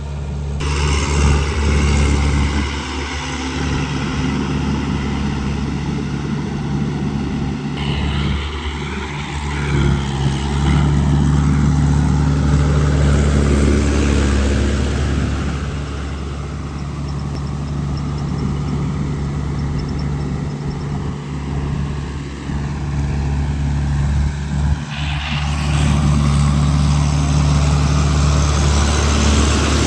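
Tractor engine running steadily, with a deep, even hum and mechanical noise above it.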